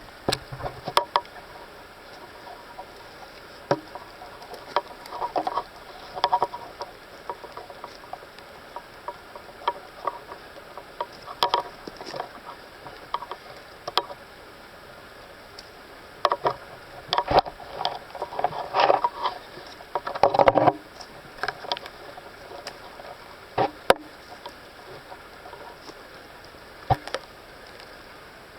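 Footsteps crunching and rustling through wet undergrowth and leaf litter: irregular crackles and sharp clicks, heaviest for a few seconds a little past the middle, over a faint steady hiss.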